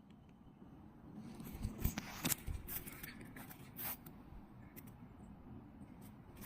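Irregular crunches and rustles, a few louder ones about two seconds in and near the middle, over a low rumble: someone moving about in the forest.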